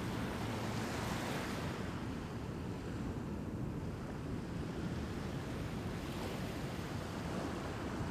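Ocean surf washing in a steady rush that swells about a second in and again near the end.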